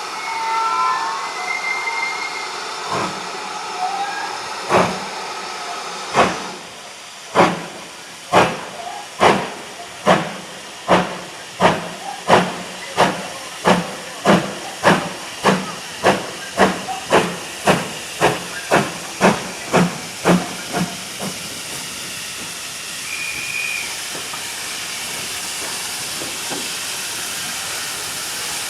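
Steam locomotive pulling away: sharp exhaust beats start about a second and a half apart, quicken steadily to just over two a second, then merge into a steady hiss of steam.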